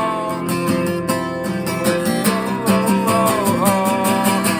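Acoustic guitar strummed in a steady rhythm as song accompaniment.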